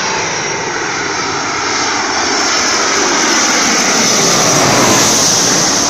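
Airplane on landing approach passing low overhead: loud engine noise that swells to a peak about five seconds in, with a pitch that drops as it goes over, drowning out the sea waves.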